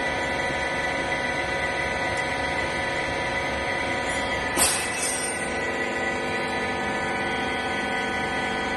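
Baling machine running with a steady hum of even tones, with one sharp short burst about halfway through.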